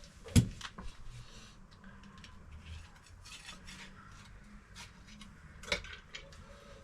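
Metal clinks and knocks as the damping rod is slid back into a KYB open chamber fork leg: a sharp knock about half a second in, a second one near the end, and lighter clicks between.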